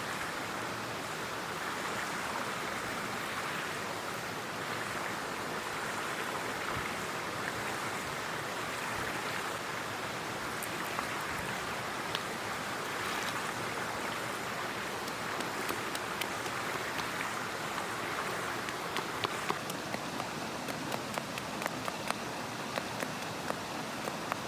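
Headwater mountain stream rushing steadily. From about halfway, sharp clicks join it, coming more and more often near the end.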